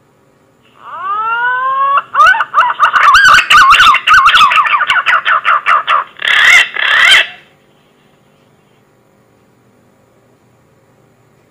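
Green pigeon (punai) lure call: a few rising whistles, then a fast wavering run of whistled notes, ending with two louder notes about seven seconds in. It is loud and distorted in places.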